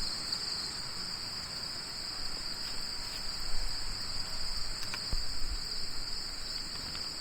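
Steady high-pitched chorus of insects such as crickets, holding unbroken throughout, with a faint tap about five seconds in.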